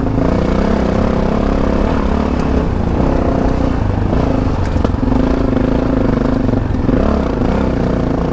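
Yamaha Ténéré 700's parallel-twin engine running under way on a dirt track, its pitch rising and falling with the throttle and dropping off briefly about three times, over a steady low rumble.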